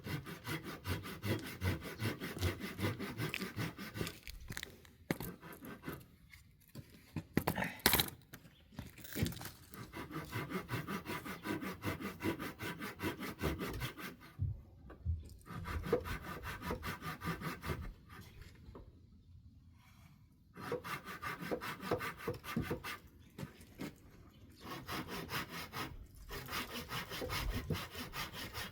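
Handsaw cutting through wood in quick, rhythmic back-and-forth strokes, stopping briefly a few times.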